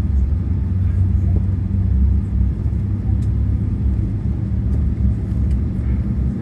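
Steady low rumble inside a Boeing 737-800 cabin on the ground, with faint occasional ticks.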